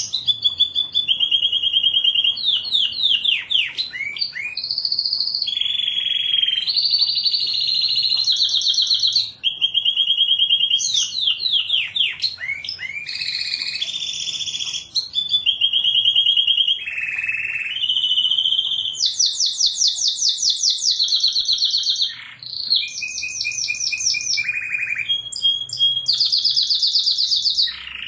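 Canary singing continuously: a long song of rapid trills, each phrase a quick run of repeated notes, switching to a new phrase every second or two.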